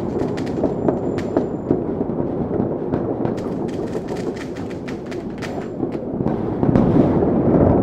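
Fireworks going off continuously: a dense rumble of bursts with many sharp cracks and pops scattered through it, swelling louder near the end.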